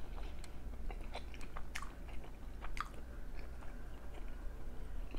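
A man chewing a mouthful of food with his mouth closed, close to the microphone, with soft, irregular wet clicks and smacks.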